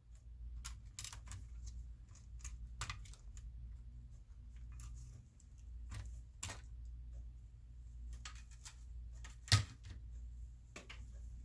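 Scattered light clicks and taps of laptop parts being handled, with one louder knock about nine and a half seconds in, over a low steady hum.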